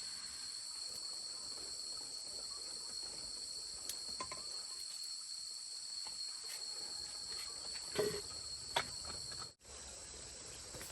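Steady, high-pitched chorus of insects chirring, with a few scattered light knocks. About nine and a half seconds in, the sound cuts out for an instant and comes back without its lowest insect tone.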